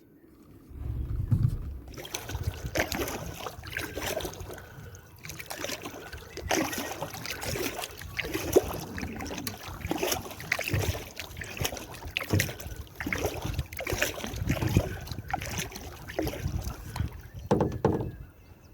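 Canoe being paddled: repeated paddle strokes and water splashes, one every second or two.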